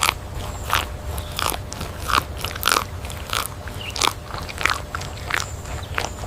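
Spotted deer (chital) grazing, chewing with a regular crunch about every half-second over a low steady rumble.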